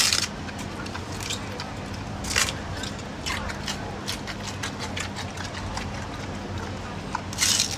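Giant panda biting and chewing bamboo: sharp cracks of splitting stalks at the start, about two and a half seconds in, about three seconds in and near the end, with smaller crunching clicks between, over a steady low hum.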